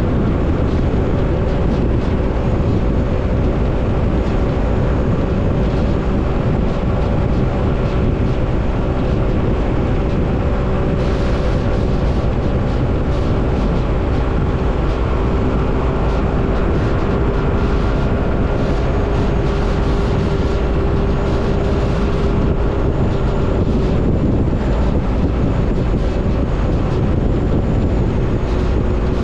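Motorbike engine running steadily while riding, its pitch held fairly constant, with heavy wind rumble on the microphone.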